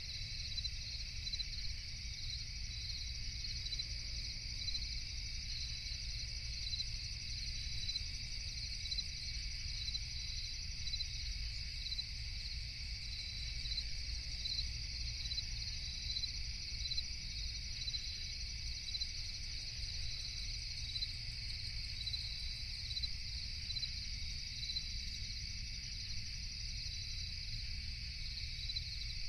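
Night chorus of crickets chirping steadily, one high pulsing trill repeating evenly over a continuous insect drone, with a low steady rumble underneath.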